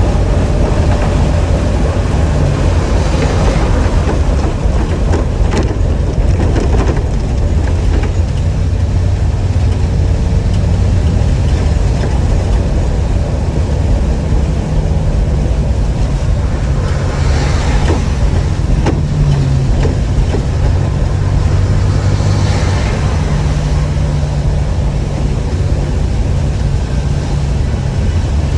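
Blue Bird All American school bus running on the road: a steady low engine and road rumble whose engine note shifts step by step. Short hissing surges come about 3, 17 and 22 seconds in.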